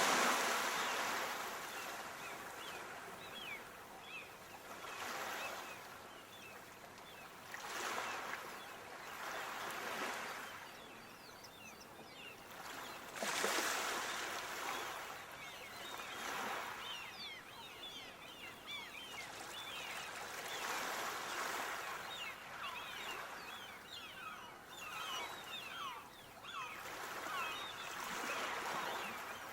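Water washing in, swelling and easing every few seconds, with many short bird chirps over it.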